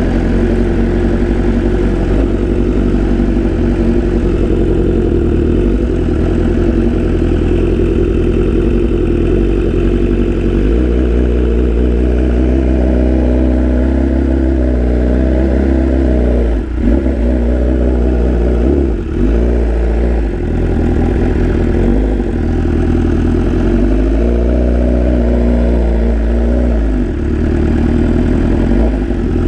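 BMW S1000RR inline-four sport-bike engine running at low revs while being ridden, its pitch rising and falling with the throttle and briefly dropping out a couple of times past the middle.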